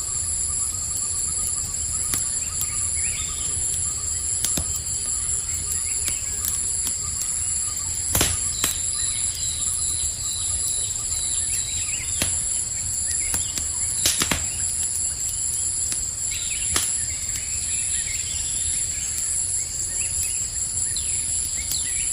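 Campfire crackling with scattered sharp pops, two of them louder about a third and two-thirds of the way through, over steady high-pitched cricket trilling and occasional bird chirps.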